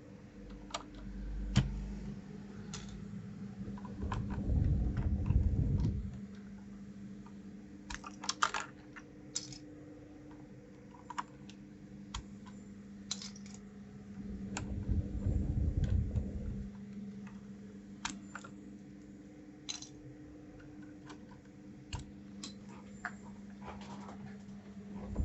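Scattered, irregular clicks of keys and keycaps on a 1st Player DK 5.0 mechanical keyboard as it is handled and pressed. A low rumbling comes twice, and a steady low hum lies underneath.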